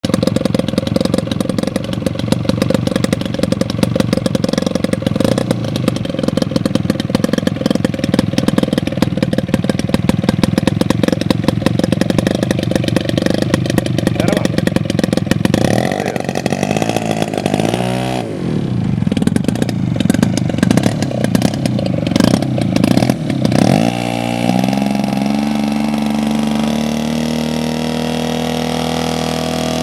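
Engine of a 1/3-scale radio-control Cessna 182 model running fast for about fifteen seconds. Its pitch then drops and climbs again several times as the throttle is worked, and it settles into a smoother steady note that slowly rises.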